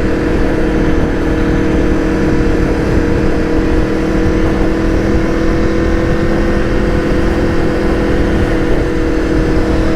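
Aprilia Tuono V4 1100's V4 engine running at a steady speed on the move, with a rush of wind over the microphone.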